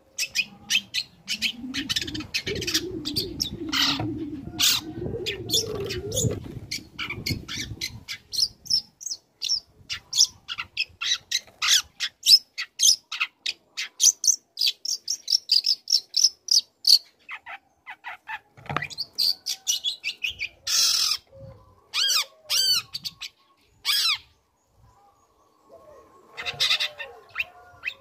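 Young long-tailed shrike singing: rapid runs of sharp chirps and short whistled notes, with harsher rasping bursts and brief pauses in the second half. A low wavering rumble lies under the first several seconds.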